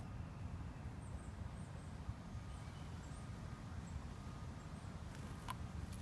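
Faint, very high, thin calls of small songbirds, a few short chirps scattered through the first few seconds, over a steady low rumble. Two sharp clicks near the end.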